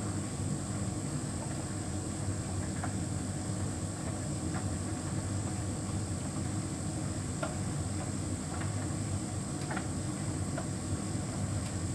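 Hotpoint heat pump tumble dryer running: a steady low hum from the drum and compressor, with a thin high whine and a few faint clicks as the load tumbles.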